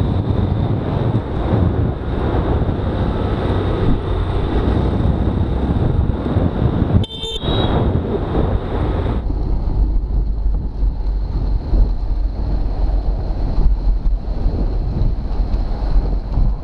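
Motorcycle riding in traffic, heard from an on-bike camera: engine and road noise under heavy wind on the microphone. A short, high-pitched vehicle horn toot sounds about seven seconds in.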